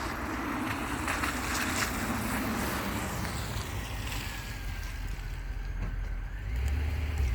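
Volvo S80's 4.4-litre V8 engine heard from outside the car, running with a deep low drone. Its note falls over the first few seconds as the revs drop, and the low drone swells again near the end, with wind on the microphone.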